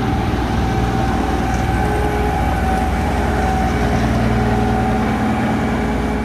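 Locomotive clearing snow from the tracks: a heavy engine running steadily under load, with a few held tones over a continuous rushing noise.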